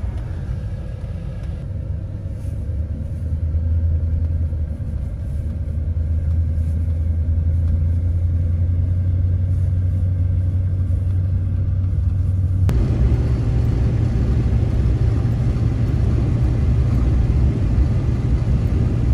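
Steady low rumble of a vehicle driving, engine and road noise heard from inside the cab. The sound changes abruptly about 13 seconds in, then runs on steadily.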